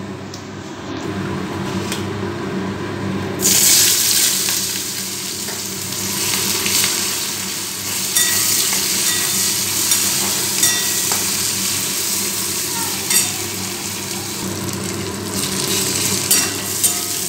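Sliced onions dropped into hot mustard oil in a kadai. A faint sizzle jumps to a loud, steady sizzle about three and a half seconds in and keeps going while a metal spatula stirs them, with occasional scraping clicks.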